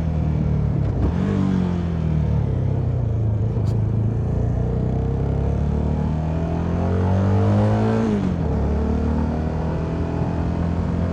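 CFMoto 300NK single-cylinder engine under way. The revs dip about a second in, climb, ease off, then climb steadily again before dropping sharply about eight seconds in. Wind rushes over the helmet microphone throughout.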